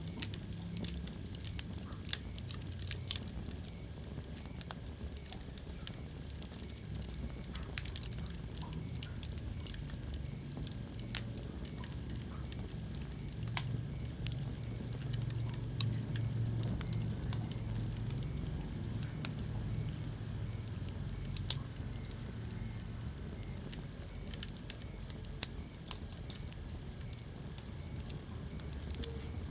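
Wood fire burning in a fireplace, crackling with scattered sharp pops over a low, steady rumble of the flames.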